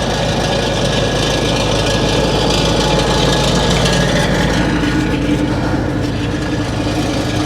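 Skid steer engine running steadily, heard from inside the cab, with a higher steady hum joining in about halfway through.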